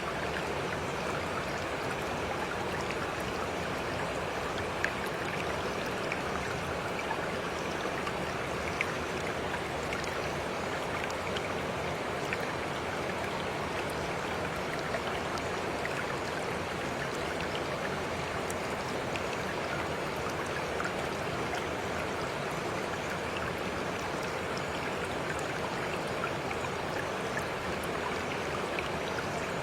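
Flowing water running steadily, with small drips and splashes scattered through it.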